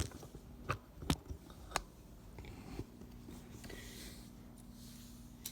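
A few sharp clicks and light knocks, three of them in quick succession in the first two seconds, from a model airliner being handled on and off its wooden stand.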